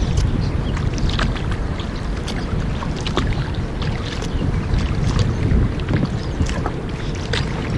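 Kayak paddling on a river: the paddle blades dip and splash, with scattered drips and clicks, over a steady low rush of water and wind.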